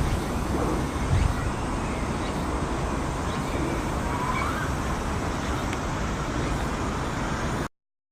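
Wind buffeting the microphone in an uneven low rumble over a steady outdoor hiss. Near the end the sound cuts off abruptly to silence.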